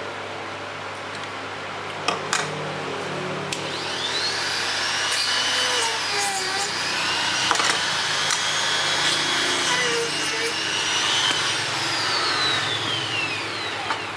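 A small electric power tool working bamboo: a few sharp knocks, then its motor whine rises about four seconds in, holds for several seconds and falls away near the end as it winds down.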